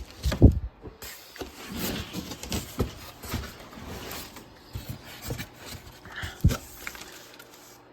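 Irregular knocks and clicks of objects being handled, with one louder thump about half a second in.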